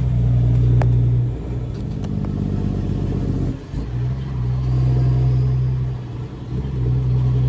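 Straight-piped Caterpillar C13 diesel in a Kenworth W900B dump truck running at low speed, the steady engine note dropping off and coming back a few times as the throttle is eased and reapplied.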